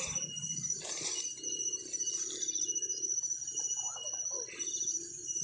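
Birds chirping in short calls over a steady high-pitched trill, the evening sound of the countryside.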